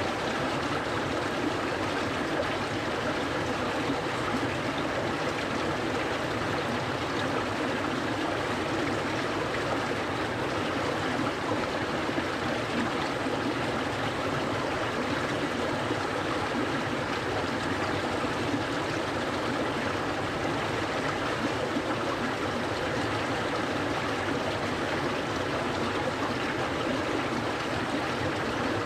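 Clear stream flowing, an even, unbroken rush of water.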